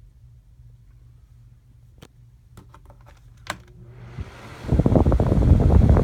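Vornado 573 9-inch flat-panel box fan: a few clicks, then it is switched on and spins up about four seconds in, running with a loud steady rush of air.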